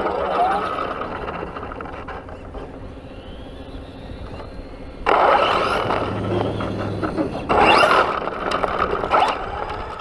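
Traxxas radio-controlled truck driving in bursts, its tyres scraping over the ground with a rising electric-motor whine. Surges of throttle come just as it starts, about five seconds in, and again near eight seconds.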